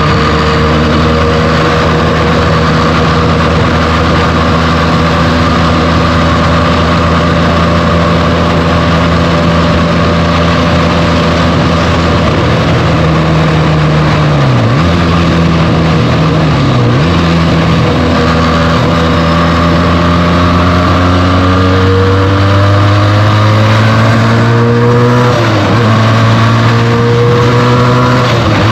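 Benelli TNT 300 parallel-twin engine with its stock exhaust, running under way at a steady speed. Its pitch dips and recovers twice mid-way, then climbs as the bike accelerates, falling once at a gear change before climbing again near the end.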